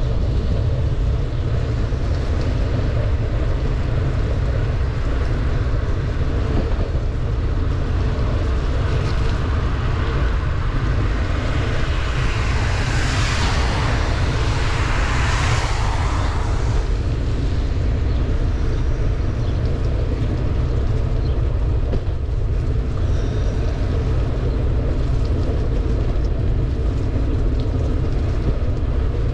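Wind buffeting the microphone of a bicycle riding downhill in pouring rain: a steady low rumble with a hiss of rain and wet road. About halfway through, a vehicle passes, its hiss on the wet road swelling and fading over a few seconds.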